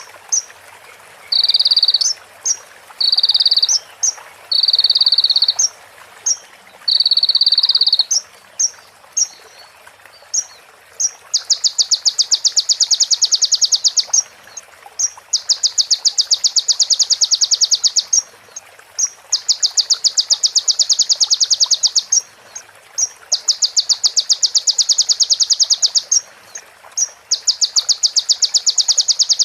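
Konin (kolibri ninja) sunbird singing. It opens with short, steady, high whistled notes mixed with sharp chips, then from about a third of the way in gives long, rapid, buzzing trills of about three seconds each, several in a row, mimicking a female prenjak's call.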